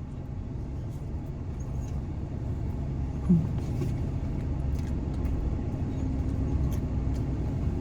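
Steady low rumble of an idling vehicle engine, growing slightly louder, with one short, brief sound about three seconds in.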